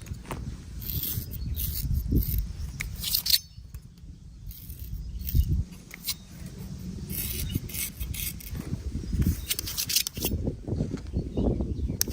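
A barber's blade cutting hair: short, crisp scraping strokes in clusters, over low rumbling handling noise.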